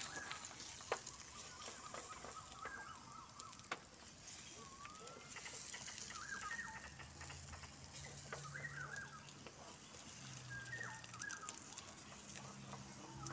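Eggs and sausages sizzling quietly on a grill pan, with a spatula clicking against the pan now and then. Birds call in short chirps throughout.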